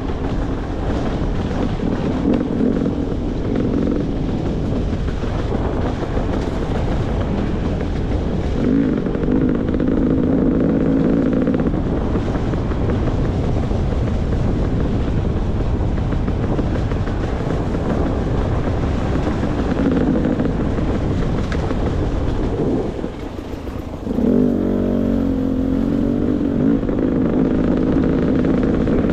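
Beta 300 RR two-stroke dirt bike engine running under changing throttle on a trail, rising in pitch and strength in spells. Near the end it drops off briefly, then picks up again sharply.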